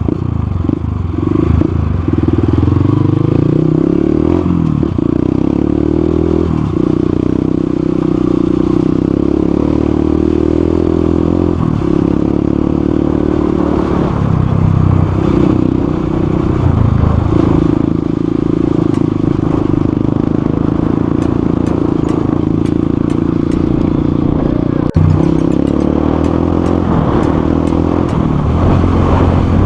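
Motorcycle engine running while riding, its pitch rising and falling as it speeds up, eases off and changes gear.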